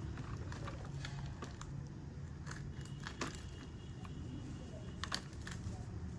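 Plastic toy construction vehicles being handled, giving scattered light clicks and knocks, the sharpest about three and five seconds in, over a low steady hum.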